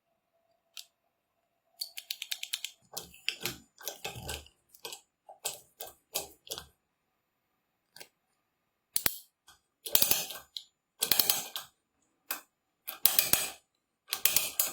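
Bursts of sharp clicking and rattling from small hard parts being handled, roughly a dozen separate bursts. Some bursts are quick, even runs of clicks.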